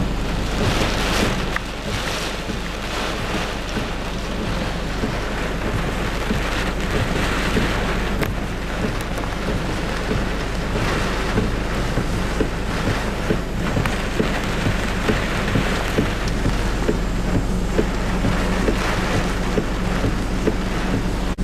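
Heavy typhoon rain and strong gusting wind: a dense rush of rain with many drops ticking, swelling and easing every few seconds as gusts come through, over a steady low rumble.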